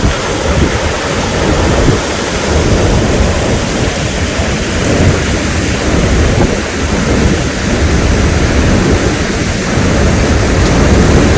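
Thunderstorm: heavy rain with a continuous low rumble.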